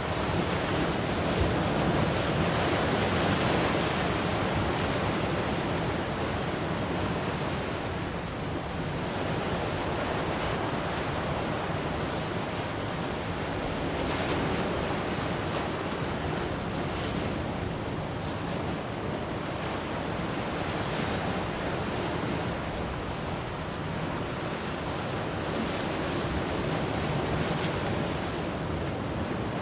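Ocean waves washing ashore in a continuous rush, swelling and easing slowly, with a hiss now and then as a wave breaks.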